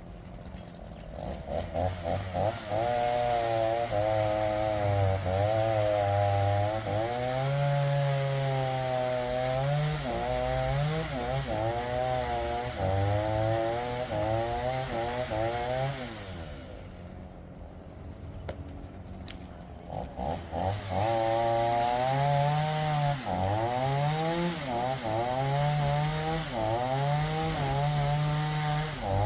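Makkie 38cc two-stroke chainsaw revving and cutting through logs, its pitch rising and falling under load. It drops back to a quieter idle for a few seconds past the middle, then revs up and cuts again.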